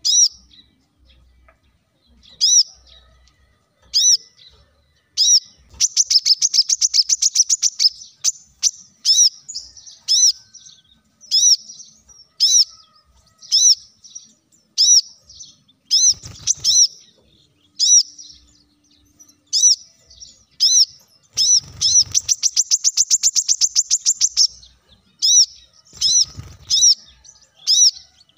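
Brown-throated sunbird (kolibri kelapa) calling: sharp, high chip notes repeated about once a second, twice breaking into a fast trill of many quick notes lasting two to three seconds.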